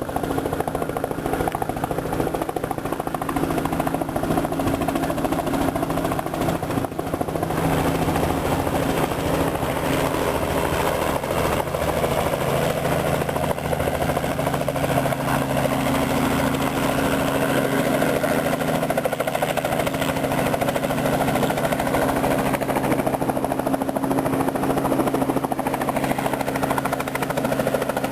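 Robinson R44 helicopter with its gasoline piston engine and rotor running steadily: a continuous low hum of several steady tones over a dense rotor haze, which grows fuller about eight seconds in.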